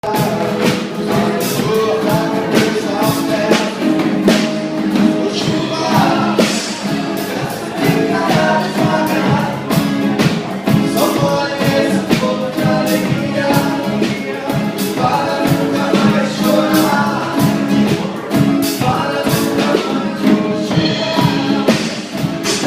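A small live band playing an upbeat song, with a steady beat of percussion strikes and a singing voice over the instruments.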